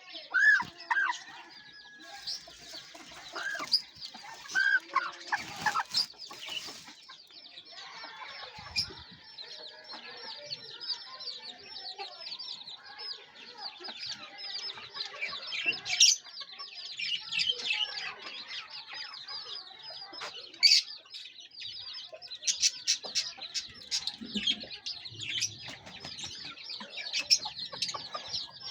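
Aseel chickens clucking over a constant chorus of high-pitched chirping, with a few sharp louder calls standing out.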